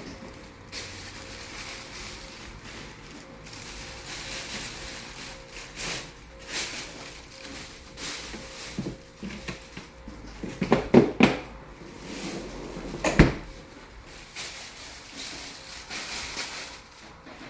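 Plastic bags rustling and items knocking as they are handled, with a faint steady hum underneath. There are louder knocks twice in the second half.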